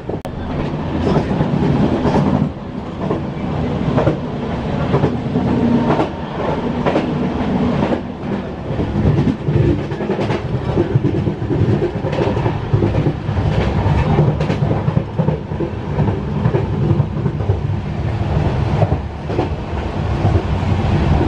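Passenger train running along the track: a steady rumble of the coach with wheels clicking irregularly over rail joints.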